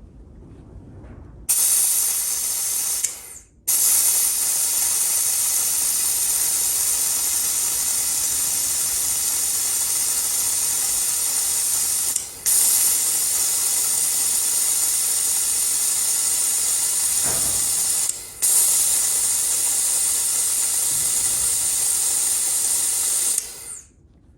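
Air-powered vacuum brake bleeder hissing loudly as compressed air runs through its venturi, pulling vacuum on the front brake caliper's bleed nipple to draw brake fluid through. It starts a moment in, cuts out briefly three times and shuts off near the end.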